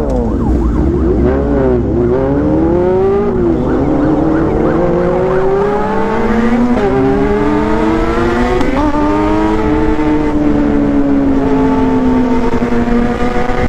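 Honda CB400 Super Four's inline-four engine under a rider: a few quick revs up and down, then pulling hard up through the gears, with two upshifts about 7 and 9 seconds in, each a brief dip in pitch, before holding a steady high-revving cruise.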